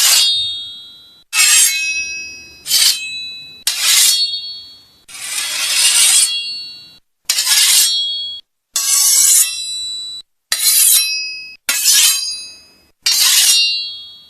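Arabian sword blade being sharpened: ten metallic scraping strokes, each ringing with high tones that die away. Most strokes start sharply; two swell up more slowly into longer scrapes.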